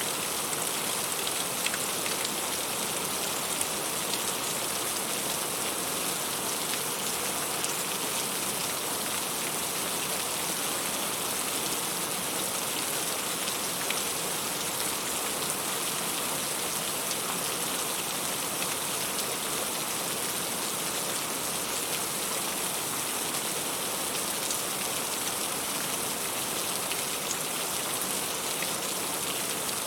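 Heavy rain falling steadily, a dense patter of drops striking fruit and leaves, with sharper individual drop taps throughout.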